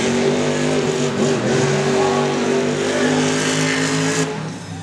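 Monster truck engine running loud at high revs, its pitch held fairly steady, then easing off near the end.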